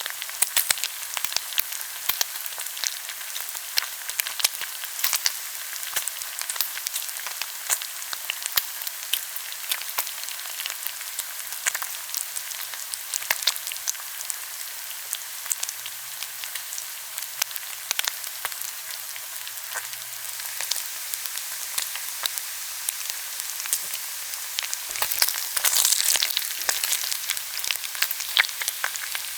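Food frying in hot oil in a pan: a steady sizzle full of quick crackling pops, swelling louder for a moment near the end.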